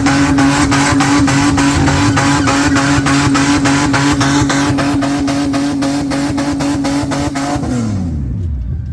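Burnout car's engine held on its rev limiter, with the ignition cutting in and out several times a second over a steady, loud note. Near the end the revs drop away quickly as the driver backs off.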